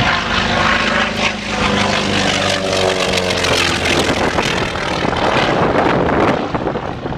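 Propeller-driven light aircraft engine running loudly, a steady drone with a rushing noise over it that fades into a broad rush after about four seconds.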